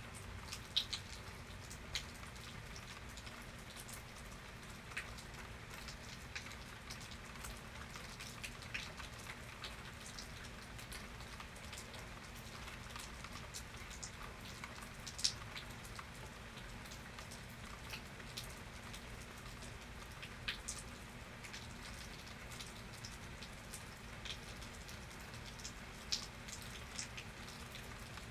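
Steady rain falling, with scattered individual drops ticking sharply on a nearby surface.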